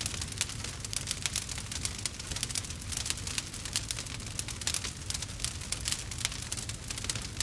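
Burning logs crackling, with many quick sharp pops and snaps at irregular intervals over a low, steady rumble of the fire.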